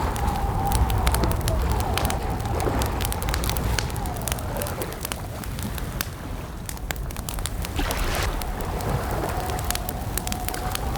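Campfire crackling with frequent sharp pops over a steady low rumble. A thin wavering whistle sits in the background, fading out midway and returning near the end.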